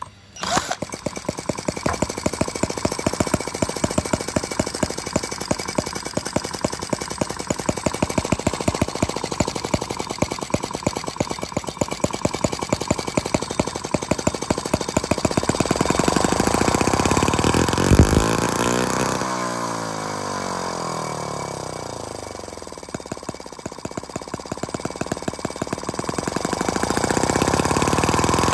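A small model engine starts abruptly and runs with a fast, even beat. About two-thirds of the way in there is a sharp click, after which the engine slows, then picks up speed again near the end.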